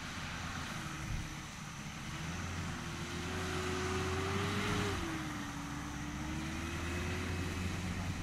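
Mitsubishi Pajero's 2.8-litre four-cylinder turbo-diesel engine running under load, its revs climbing slowly for about five seconds, then dropping sharply and holding steady.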